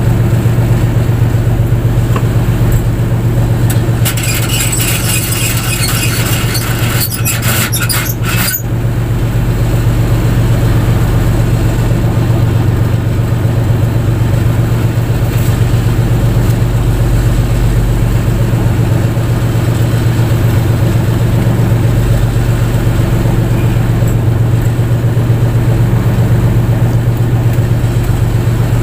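Fishing boat's engine running with a steady low hum. From about four seconds in, a high, rasping noise made of rapid clicks sits over it, then cuts off about four seconds later.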